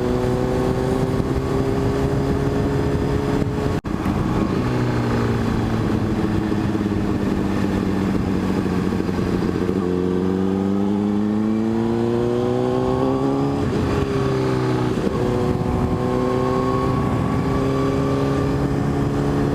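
A 600cc motorcycle engine running under way. The revs climb, ease off through a long slow stretch, then climb again, with a drop in pitch about two-thirds of the way through as it shifts gear. A steady wind rush sits under the engine.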